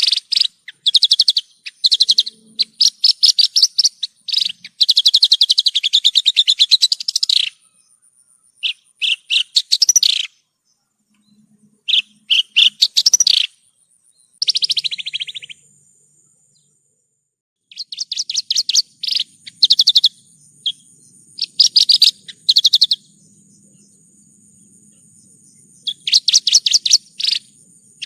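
Javan bush lark (branjangan) singing: bursts of rapid, trilled notes in phrases of one to several seconds, broken by short pauses and a longer silent gap about two-thirds of the way in.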